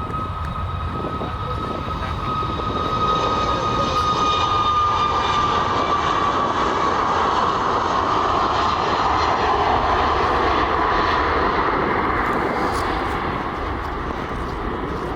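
Airliner's engines passing by: the engine noise swells over a few seconds, holds, then fades toward the end, with a high steady whine that drops slightly in pitch as the plane goes past.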